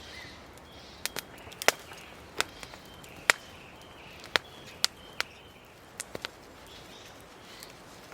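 Wood fire crackling: sharp, irregular pops and snaps, about a dozen, some louder than others, over a low steady background.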